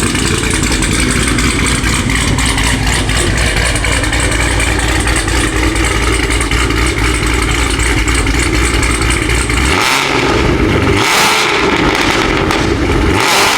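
Cadillac Escalade-V's built, cammed supercharged LT4 V8 with headers, running steadily with a heavy low rumble. About ten seconds in, the rumble cuts out briefly a few times under bursts of hiss.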